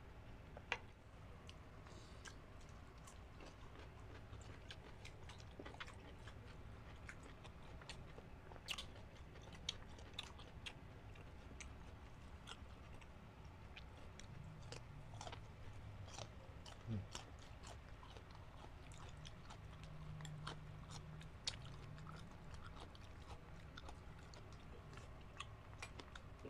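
Faint, close-miked chewing, biting and lip smacks of two people eating grilled chicken-intestine and pork-blood skewers with crisp cucumber. Scattered short sharp clicks of mouth and teeth run throughout.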